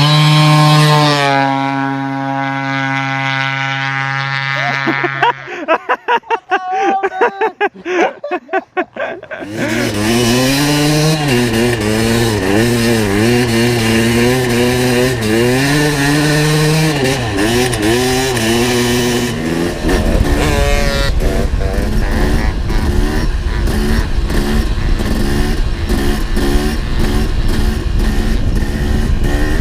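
Motorcycle engines revving up and down in repeated sweeps as street bikes ride on an ice lake, with a denser, harder-running engine sound through the second half.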